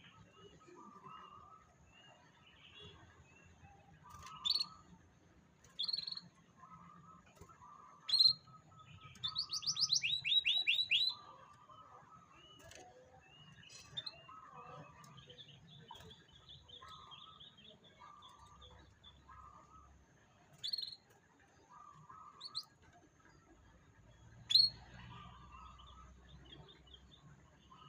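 Canary calling in short, sharp chirps, with a fast trill of repeated notes about a third of the way in and a longer held note after it.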